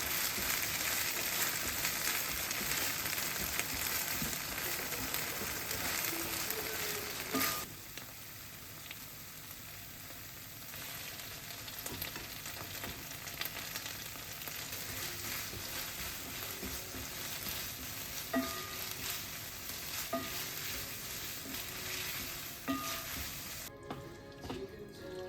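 Food sizzling in a hot frying pan, loud for about the first seven seconds, then dropping suddenly to a quieter sizzle with a few short taps as it is stirred. Music comes in near the end.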